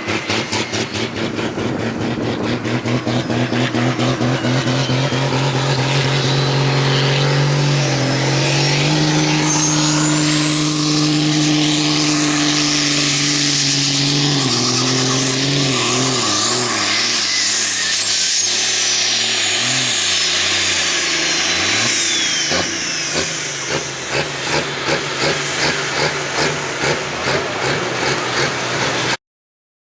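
A Super Sport class pulling tractor's engine at full throttle during a pull. The revs climb over the first several seconds and hold high with a high whine rising and falling above them. About halfway the revs drop and waver as the engine labours against the sled, and near the end the engine surges in rapid pulses. The sound cuts off abruptly just before the end.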